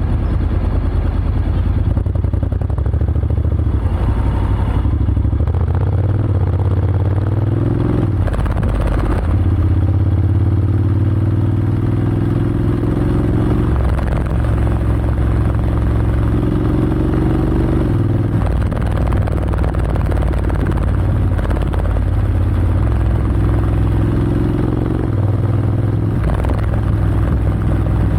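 Honda X-ADV 750's parallel-twin engine running through an SC-Project SC-1R slip-on exhaust with the dB killer fitted. The engine note climbs slowly and drops back suddenly several times.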